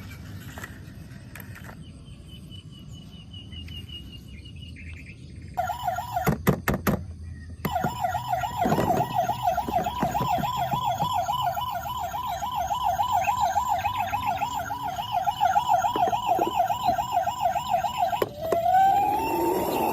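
A toy car's electronic siren: a fast warbling wail that comes in about six seconds in, after a few sharp clicks, and near the end switches to a slower rising wail.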